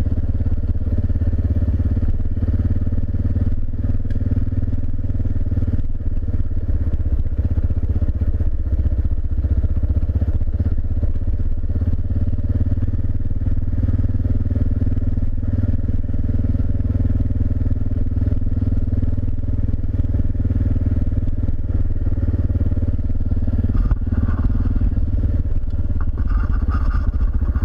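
Single-cylinder dual-sport motorcycle engine running at a steady pace on a dirt road, holding an even note.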